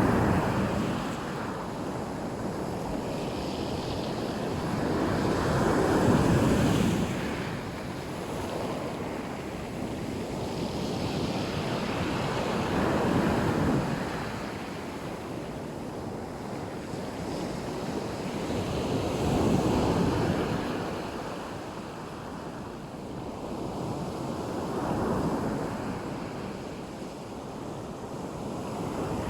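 Black Sea waves breaking on a beach, the surf swelling and falling back about every six to seven seconds, five times.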